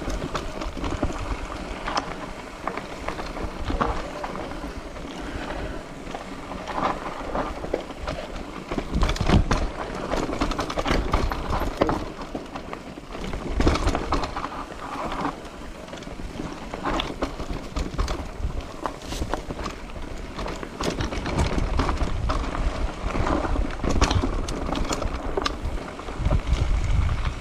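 Wind buffeting the microphone while riding, with scattered clicks and rattles.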